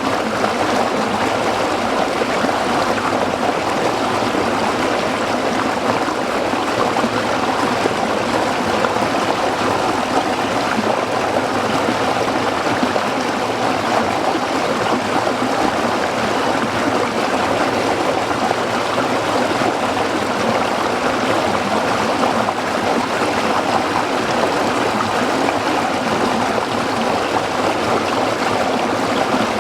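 A small stream running over rocks: a steady babbling and trickling of water that holds at the same level throughout.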